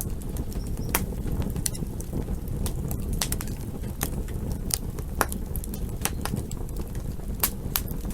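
Campfire burning: a steady low rush with irregular sharp crackles and pops, about two a second.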